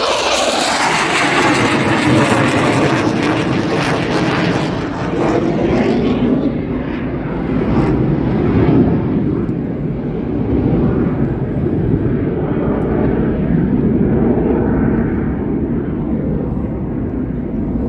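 Airshow aircraft flying past with a loud, steady roar, brightest in the first few seconds and growing duller as it moves away.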